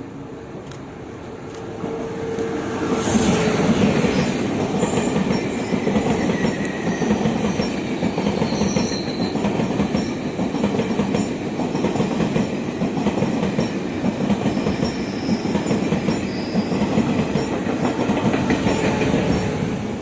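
Train passing close by, its wheels clattering over the rails. It comes up about two seconds in, runs past steadily, and fades near the end.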